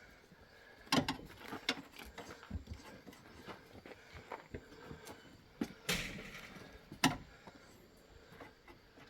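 Scattered knocks and clicks of hand tools working on a tractor tire, a few sharper strikes about a second in, near six seconds and near seven seconds, with quieter handling noise between.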